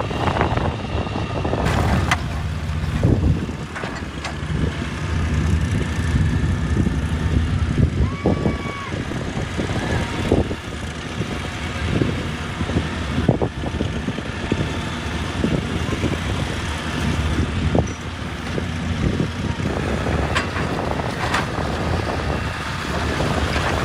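Excavator's diesel engine running steadily, with repeated sharp knocks and clanks of the machine at work, and a short whine about eight seconds in.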